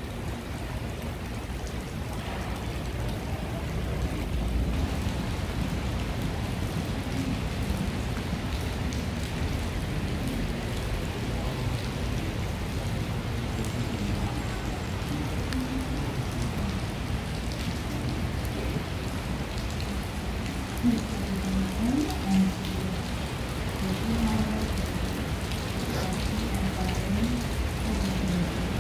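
Steady rain falling, heard as an even wash of noise, with a couple of brief louder moments about two-thirds of the way through.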